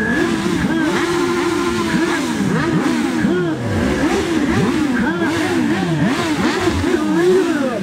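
Several motorcycle engines revving over and over at once, their pitches rising and falling and overlapping.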